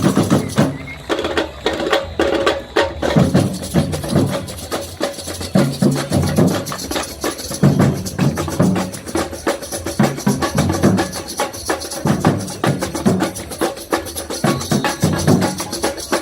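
Batucada samba drum ensemble playing: a dense run of quick, sharp strikes over repeated low drum beats.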